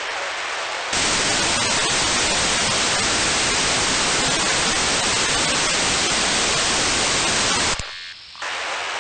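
FM radio receiver static on the LAPAN-A2 (IO-86) voice repeater downlink, with no voice on the channel. The hiss is fainter for about the first second, then loud and steady, and drops away briefly shortly before the end.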